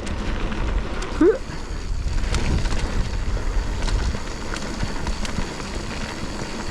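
Wind rumbling on the microphone, with a few faint clicks and a short rising squeak about a second in.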